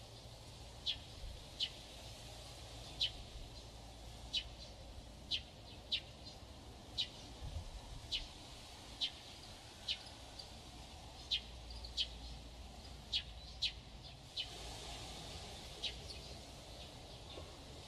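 A small bird giving short, sharp single chirps, about one a second at uneven intervals, over a faint low rumble of outdoor background.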